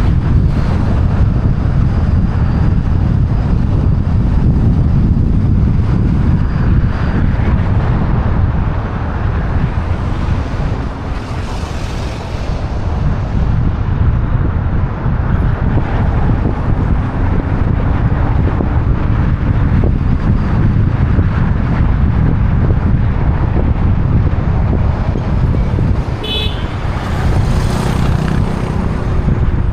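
Steady low wind rumble on a car-roof-mounted camera's microphone while driving, mixed with road and traffic noise. A brief hiss swells about 12 seconds in, and a short high chirp sounds near the end.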